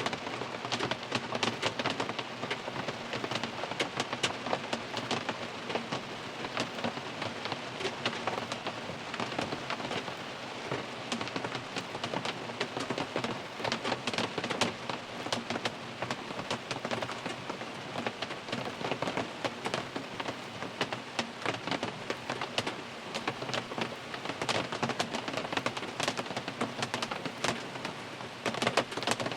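Steady rain drumming on a car's roof and windows, heard from inside the cabin, with many close, irregular drop hits over a constant patter.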